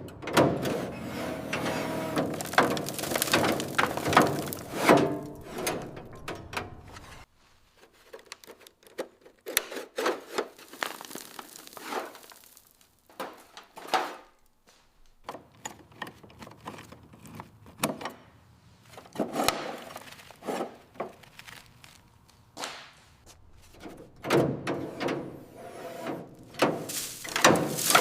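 A series of irregular knocks, thuds and clatters, as of tools and parts being handled. The first seven seconds are dense with overlapping scraping and clattering, and sharper separate knocks follow at uneven intervals, bunching again near the end.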